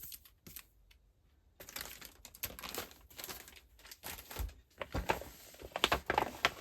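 Foil cardstock sheets and their packaging rustling and crinkling as they are handled and leafed through. It starts after a brief lull, about a second and a half in, with sharper crackles near the end.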